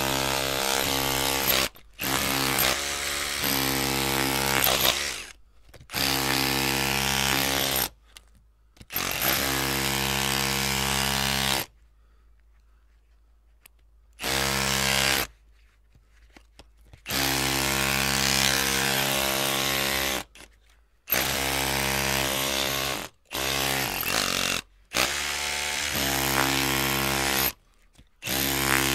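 Electric drill's motor whining at a steady pitch in repeated bursts of one to four seconds, stopping and starting about nine times, with one longer pause about twelve seconds in.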